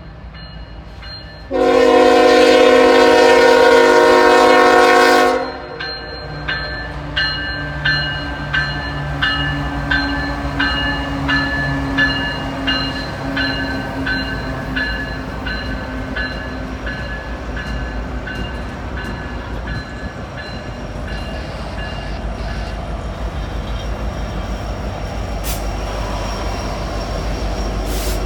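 A diesel freight locomotive's air horn sounds one long chord of about four seconds. A bell then rings in evenly spaced strikes, about three every two seconds, fading away, over the locomotive's engine hum and a train rumble that builds toward the end.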